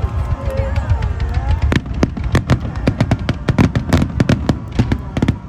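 Fireworks going off in a fast string of sharp bangs and crackles, several a second, starting a little under two seconds in, over crowd voices.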